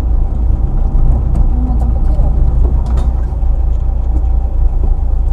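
Rally car engine running steadily at low revs, heard from inside the cabin, with a constant low drone as the car rolls slowly.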